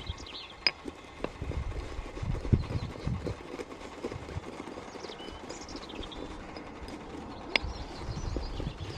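Scattered knocks, clicks and low thuds of things being handled, the sharpest two a little under a second in and near the end, over faint bird chirps in woodland.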